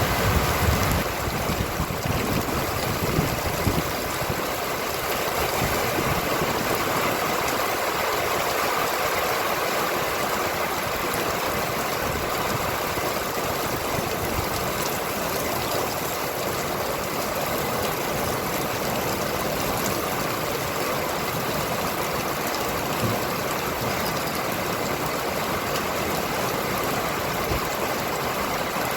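Steady rain falling, an even hiss of rain on the street and nearby surfaces, with a low rumble in the first few seconds.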